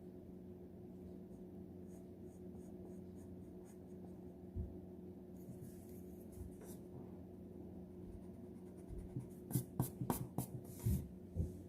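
Pencil drawing on paper: faint short scratching strokes, then a run of quicker, louder strokes near the end, over a faint steady hum.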